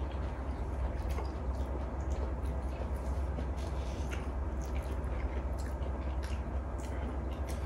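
Close-miked chewing and soft wet eating sounds as people eat spicy stir-fried chicken and noodles, with occasional light clicks over a steady low hum.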